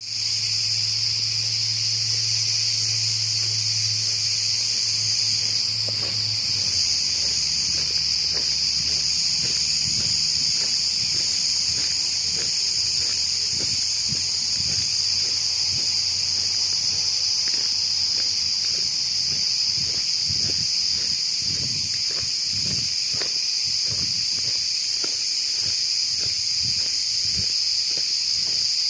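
A dense, steady chorus of crickets chirring in a forest, a continuous high shrill with no breaks. A faint low hum sits under it for the first few seconds, and soft low knocks scattered through the rest, growing more frequent later on.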